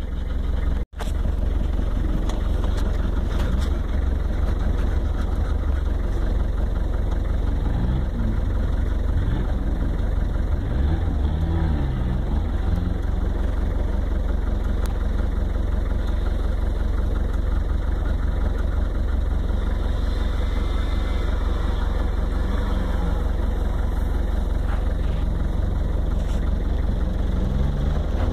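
Off-road 4x4 engine running in a sand pit, revving up and down again and again as it works through the sand. The sound cuts out for an instant about a second in.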